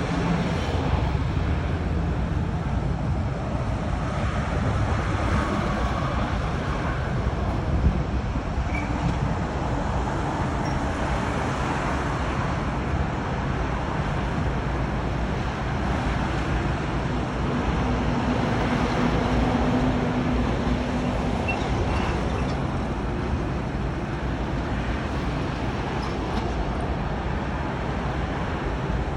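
Engines of road-construction machinery and passing traffic running steadily, a continuous low rumble. A faint droning tone comes in about two-thirds of the way through.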